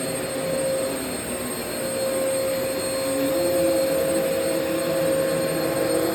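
Vacuum cleaner running steadily: an even rush of air with a constant motor whine and a lower tone that wavers up and down in pitch.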